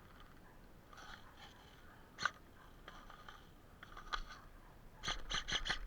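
Airsoft gunfire: faint scattered shots, a sharper single shot about two seconds in, another around four seconds, then a quick burst of about five shots near the end.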